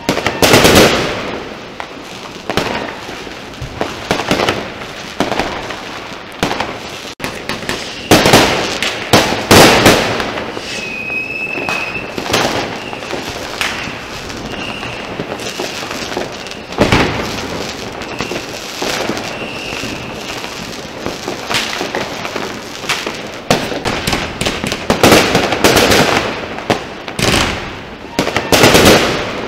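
Rockets and firecrackers going off all around: sharp bangs at irregular intervals over a constant, dense crackle. A thin high whistle comes and goes in the middle stretch.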